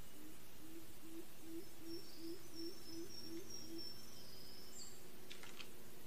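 Forest birds calling: a series of about ten low, hollow notes, roughly three a second, each rising slightly, stopping a little before the end, with thin high twitters and chirps above them.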